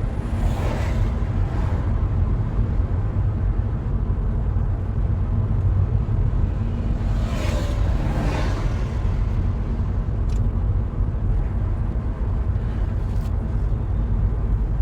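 Steady low road and engine rumble, as heard inside a moving car.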